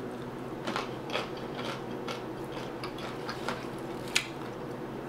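A person chewing crunchy fried wonton with the mouth close to the microphone: a run of irregular small crunches and wet clicks, with one sharper crunch a little after four seconds.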